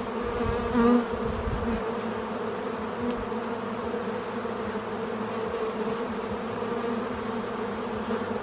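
Honeybees buzzing around an open hive during a frame inspection: a steady, continuous hum from many bees. A brief low thump about a second in.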